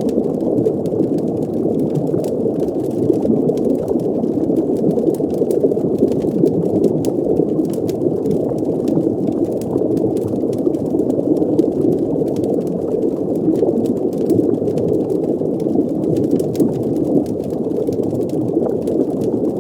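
Steady, muffled underwater ambience: a dense low rumble of bubbling water, with faint scattered ticks above it.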